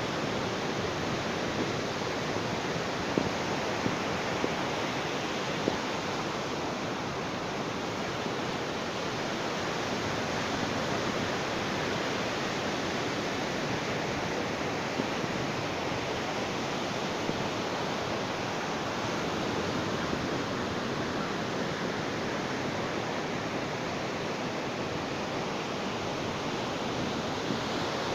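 Ocean surf washing onto a beach: a steady, continuous rush of waves, with a few faint ticks in the first few seconds.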